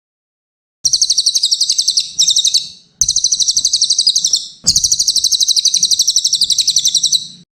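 Cililin (pygmy tit) song: rapid, high-pitched twittering trills in four runs, the first starting about a second in, each broken off by a short pause.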